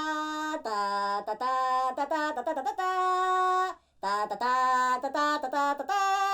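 A single voice singing a melody unaccompanied, in held notes that step up and down in pitch, with a short pause about four seconds in.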